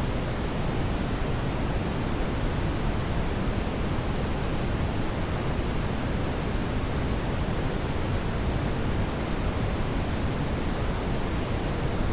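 Steady brown noise: an even, unchanging rushing hiss weighted toward the low end, with no events or changes.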